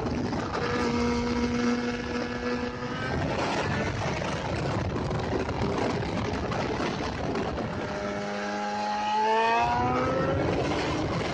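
Motorcycle engine running under heavy wind and road noise. It holds a steady note for the first few seconds, then revs up with a rising pitch about eight to ten seconds in.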